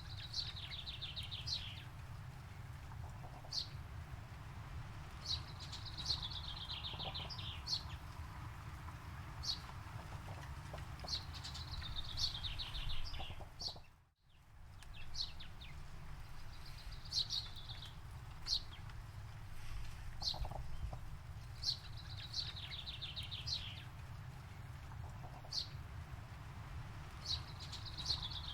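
A songbird repeating one song every few seconds: a few short, sharp high notes, then a fast trill that slides downward. A steady low rumble runs underneath, and everything drops out briefly about halfway through.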